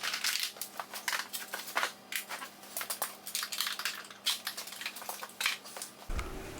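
Irregular clicking and crackling of plastic motorcycle fairing panels and their fasteners being handled during removal, with a low thump near the end.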